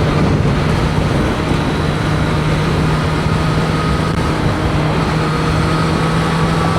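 Heavy wind noise inside a motorcycle helmet at highway speed, over the steady drone of a Triumph Street Triple 765 RS's three-cylinder engine.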